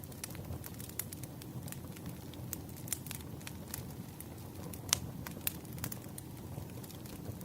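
Wood fire crackling, with irregular sharp pops over a steady low rumble of the flames; the loudest pop comes about five seconds in.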